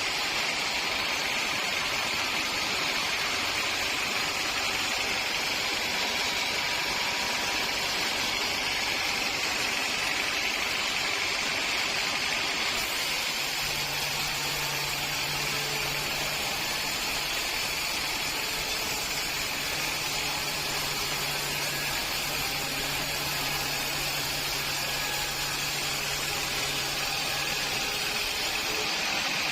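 Sawmill machinery running steadily, with a low hum that comes in about halfway through.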